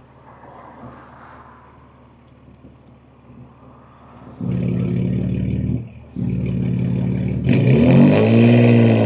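BMW M2 G87's twin-turbo S58 straight-six through catless downpipes and an equal-length mid pipe: quiet cruising at first, then about four seconds in the exhaust turns loud under acceleration, breaks off for a moment at a gear change, and comes back louder still with the revs climbing and falling near the end.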